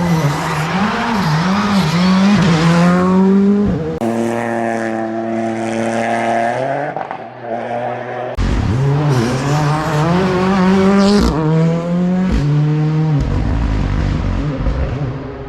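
Rally car engines revving hard and shifting through the gears at speed, in separate passes with abrupt breaks about four seconds in and again about eight seconds in.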